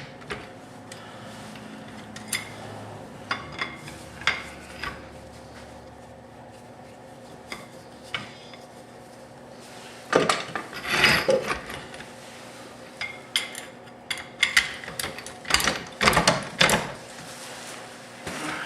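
Ratchet wrench tightening the nut on a rear control arm's ball-joint stud, in short runs of ratchet clicking with scattered metal clicks. There are two louder bursts of rapid clicking about ten seconds in and again near the end.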